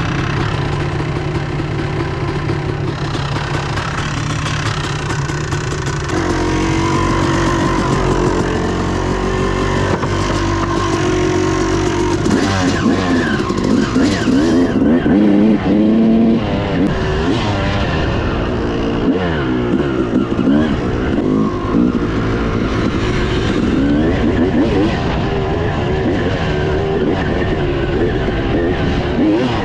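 Dirt bike engine running and revving, its pitch climbing and dropping again and again through the middle of the stretch.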